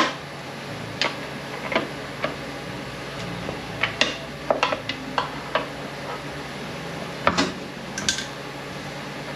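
Scattered metal clinks and knocks of a 9T65 automatic transmission's case half and loose internal parts being handled during teardown, a dozen or so separate strikes with the loudest near the end, over a steady low hum.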